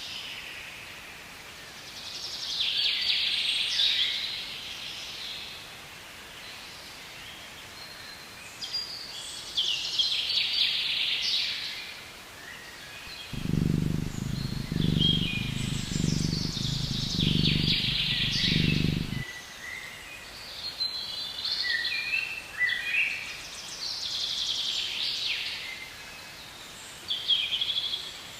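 Several birds singing in high, repeated song phrases every few seconds over a steady background hiss. About halfway through, a low sound pulses about once a second for some six seconds.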